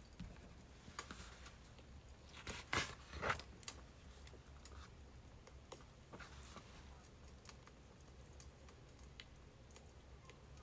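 Birch firewood burning, with irregular small crackles and pops, and a louder cluster of crackles about three seconds in.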